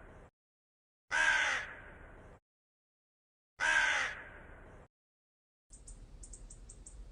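Crow cawing: two caws about two and a half seconds apart, each loud at first and dying away over about a second. A faint hiss with light, rapid ticking follows near the end.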